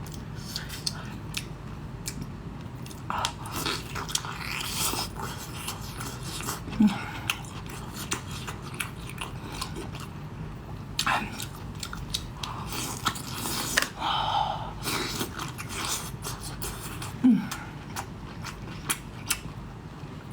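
A person chewing and biting into lobster meat close to the microphone: wet mouth sounds with scattered clicks and crackles. There are two brief low hums, about ten seconds apart.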